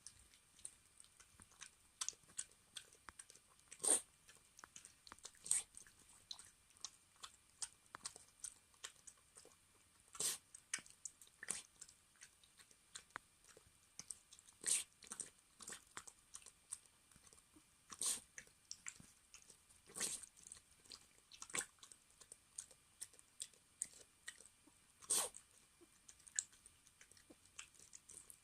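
A Maltese dog eating, chewing and crunching its food in quick irregular clicks, with louder crunches every few seconds.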